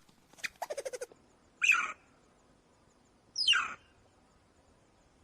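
A small animal's calls: a quick run of short chirps in the first second, then two loud, high calls about two seconds apart, each falling in pitch.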